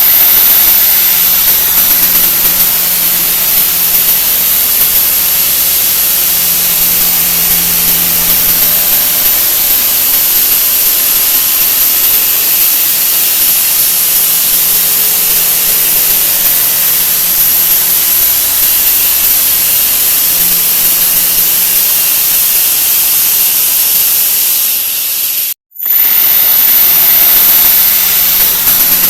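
A 'wah wah' sound effect digitally sped up so far that it has become a loud, continuous hiss-like noise with a bright high whine on top. It cuts out for a split second near the end, then carries on.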